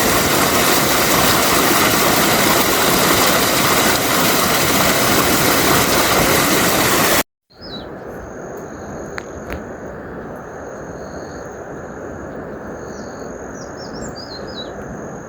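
Loud, steady rushing hiss for about seven seconds that cuts off abruptly. After the cut comes a quieter, lower rushing, with small birds chirping several times and a thin steady high whistle over it.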